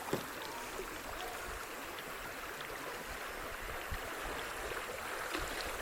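Steady rush of running creek water, with a few faint ticks.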